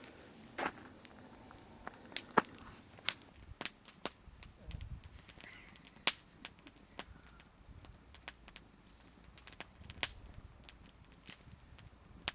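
A string of sharp, irregular cracks and clicks, some much louder than others, at no steady rhythm.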